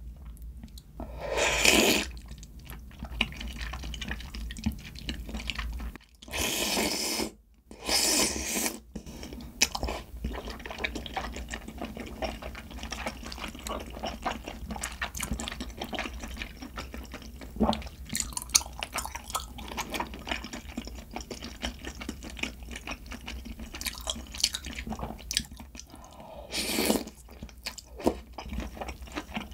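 Close-miked eating of mala tang: glass noodles and broth slurped in a few short bursts, with wet chewing and small mouth clicks between them.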